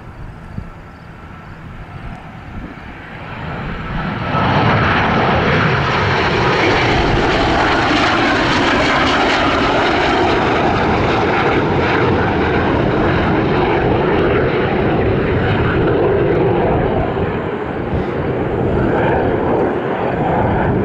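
Twin jet engines of a Northrop T-38 Talon trainer, building as the jet draws near and loud from about four seconds in, staying loud as it passes and climbs away.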